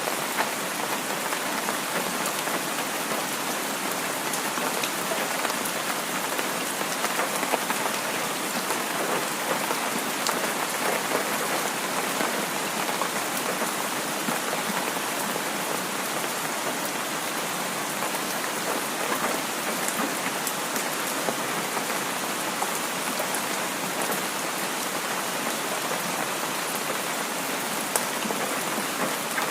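Heavy rain falling steadily: a dense, even hiss with scattered sharp drop taps.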